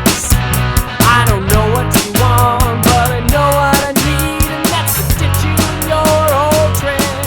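Instrumental passage of a rock song: a steady drum beat under a lead line that bends up and down in pitch, with no singing.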